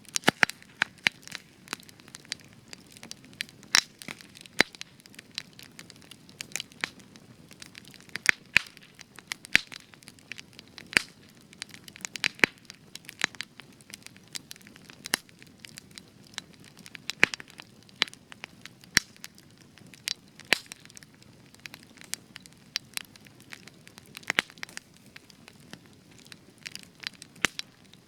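Spruce wood burning in a campfire, crackling with frequent sharp, irregular pops and snaps over a low steady hiss of flame.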